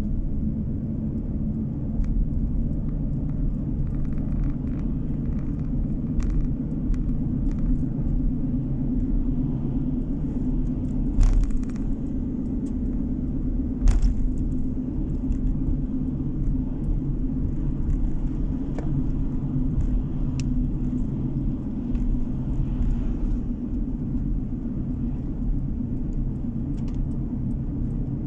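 A car's steady low engine and road rumble, heard from inside the car while driving. Two sharp knocks stand out partway through.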